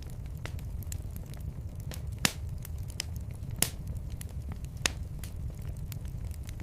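Wood fire in a fireplace crackling over a low steady rumble, with scattered sharp pops, the three loudest coming about two, three and a half and five seconds in.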